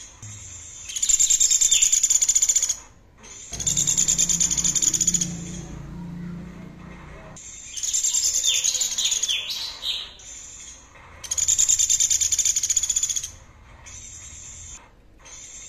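A songbird repeating fast, high, buzzy trill phrases of about two seconds each, with short pauses between them; one phrase near the middle ends in a few falling notes.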